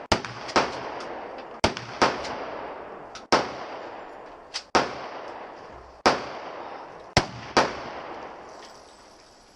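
Gunshots at a shooting range: about nine sharp reports at uneven intervals, some a fraction of a second apart, each followed by a fading echo.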